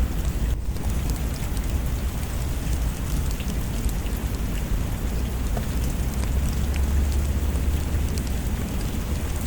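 Steady rain falling, with a deep low rumble underneath and scattered small ticks of drops, and a brief drop in level about half a second in.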